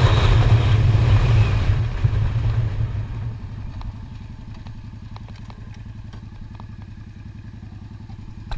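Honda Shadow V-twin motorcycle engine with wind rush, slowing down: the wind drops away about two seconds in and the engine settles into an even idle, with a few faint clicks.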